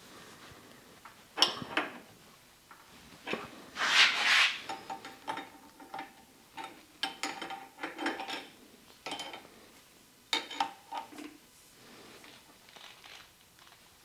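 Metal clinks and knocks from hydraulic hose fittings and hand tools being handled, a dozen or so separate strikes spread irregularly. A short burst of scraping noise about four seconds in is the loudest sound.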